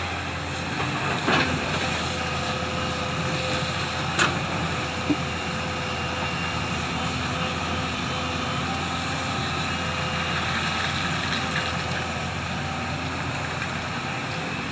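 Heavy diesel construction machinery, an excavator loading a dumper, running steadily, with a few short knocks about one and a half, four and five seconds in.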